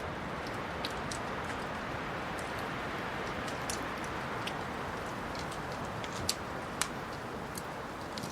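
Wood fire burning in a fireplace: a steady low rush with scattered light crackles and snaps, two louder pops a little after six seconds in.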